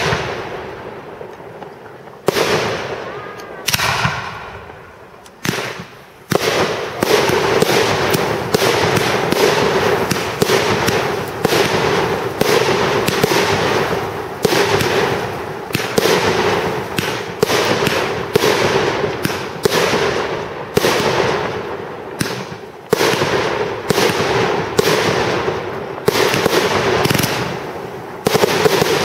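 Aerial fireworks shells bursting overhead. A few separate bangs come in the first six seconds, one with a short whistle. Then a dense run follows, about one burst a second over continuous crackling.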